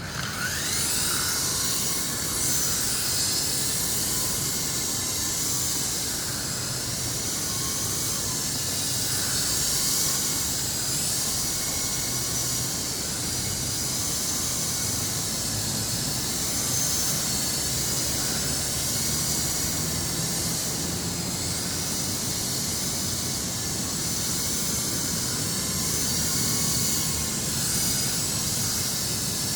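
Hamleys Gyro Force Max toy RC helicopter's small electric motors and rotors running in flight: a high, hissing whine that rises as it spins up at the start, then wavers up and down in pitch.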